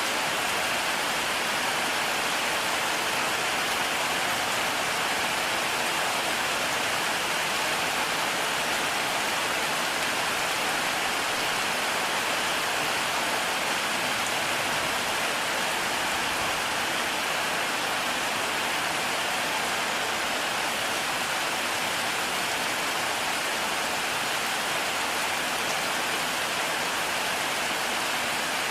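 Heavy rain falling steadily: a dense, even hiss of drops that holds at the same level throughout, with no thunder.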